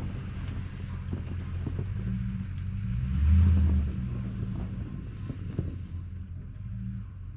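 Engine of a machine moving snow, running steadily, with a brief surge in load or revs about three seconds in.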